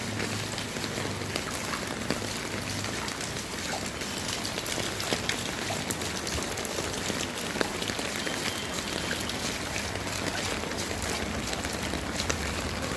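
Steady rain falling, with many individual drops striking surfaces as sharp little ticks over an even hiss, and a low steady hum underneath.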